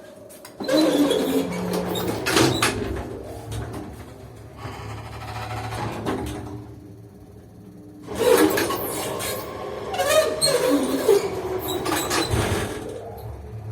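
Creaking of the balancer on a 1968 Soviet KMZ passenger lift, in two squeaky bouts with clicks, about eight seconds apart. A steady low machinery hum runs under the second bout.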